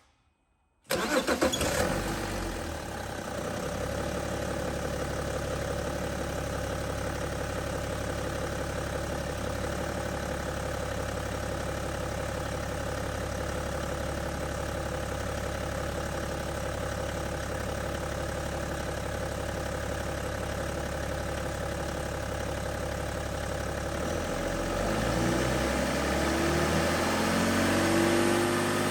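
BMW M57 straight-six diesel engine, fitted with a new vacuum pump, starting up about a second in and settling into a steady idle. Near the end it is revved up and eases back down.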